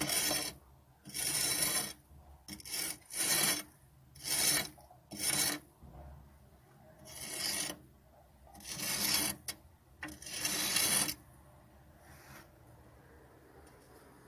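A hand tool scraping at a crumbling cement-sand mortar joint in brick masonry, about nine irregular rasping strokes. The scraping stops near the end.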